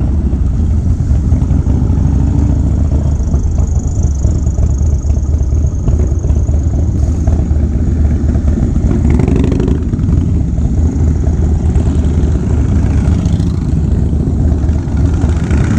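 2016 Harley-Davidson Low Rider S's Twin Cam 110 V-twin, fitted with S&S 585 cams and a Fab 28 aftermarket exhaust, running steadily under way as a deep, even rumble.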